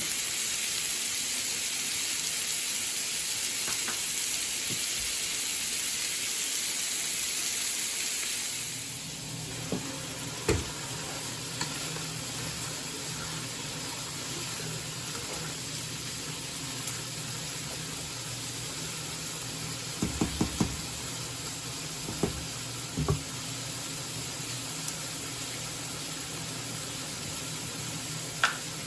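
Food frying in a pan: a loud, even sizzle that drops to a quieter sizzle about eight seconds in. A few sharp knocks sound over it, with a quick cluster of them about twenty seconds in.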